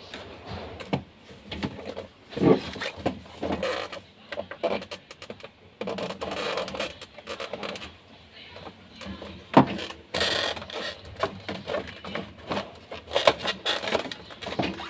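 Irregular clicks, knocks and scraping of a refrigerator's cover panel being handled and fitted into place.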